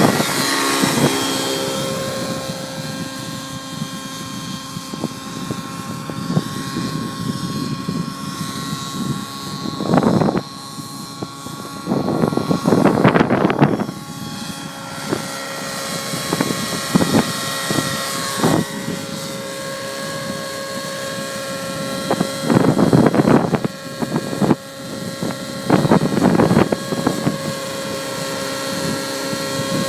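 Nitro glow engine and rotors of a 700-size T-REX radio-controlled helicopter running in flight with a steady pitched whine. Several loud gusts of wind rumble on the microphone along the way.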